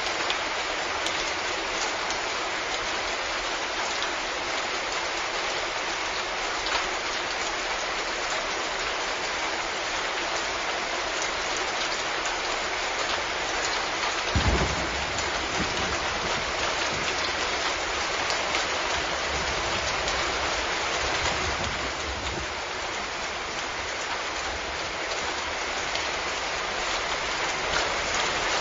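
Steady, even rain pattering on a surface. About halfway through, a sudden low crack of thunder rolls on as a rumble for several seconds.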